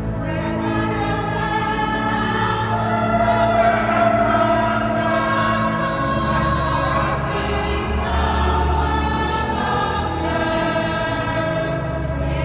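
A church choir singing, several voice parts together, over long held low notes.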